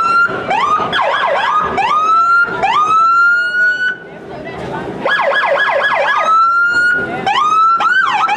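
Emergency vehicle's electronic siren sounded in short rising whoops and longer wails, with a quick run of rapid yelps about five seconds in and fast up-and-down warbling near the end.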